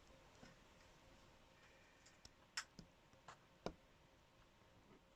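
A few faint, scattered clicks from hand tools working at an engine valve spring while it is pressed down to seat the collets, the sharpest a little past halfway.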